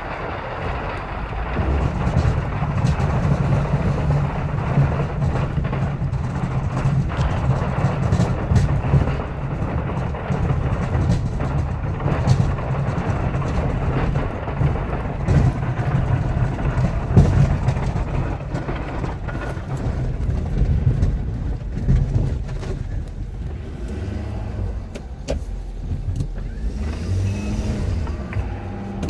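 A pickup truck's 6.7-litre Powerstroke V8 diesel runs steadily under load while plowing snow, with scattered short knocks. The engine note eases off about twenty seconds in.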